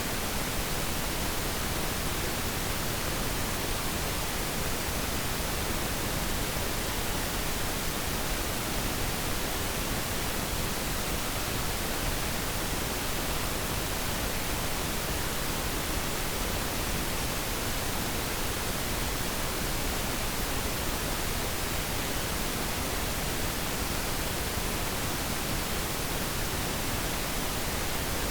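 Pure pink noise: a steady, even hiss with less high treble than white noise, unchanging throughout.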